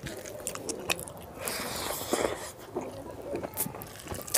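Close-miked chewing and mouth sounds of a person eating pork curry and rice, with scattered short wet clicks.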